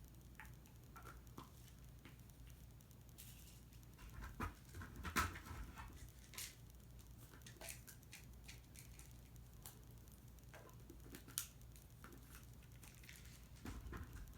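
Quiet room with a low steady hum and scattered light clicks and taps, the loudest about five seconds in and another sharp one about eleven seconds in.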